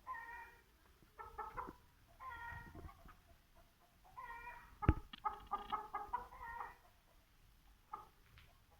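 Aseel chickens calling in short pitched cries, several in a row, with a sharp knock about five seconds in.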